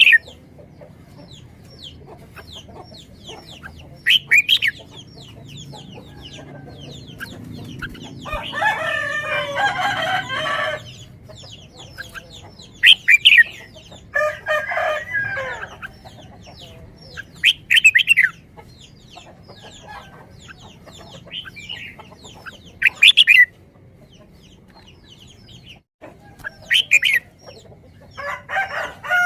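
Chickens calling with short, sharp clucks and squawks, and two longer calls about two seconds each near the middle that fit a rooster crowing.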